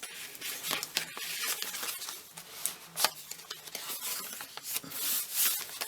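Paper rustling with light clicks and taps as the thick, handmade junk journal's pages, tags and pockets are handled.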